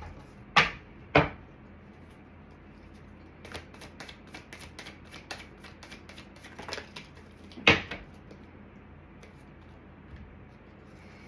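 Tarot cards being handled on a table: two sharp taps, then a run of quick light clicks and rustles, then one more sharp tap.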